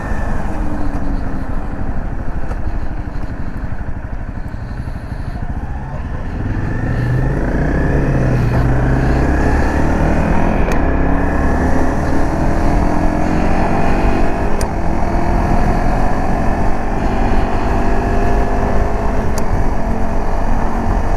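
Dirt bike engine running under a rider, with heavy road and wind noise. It eases off to low revs a few seconds in, then pulls away, its pitch climbing slowly and steadily as it speeds up.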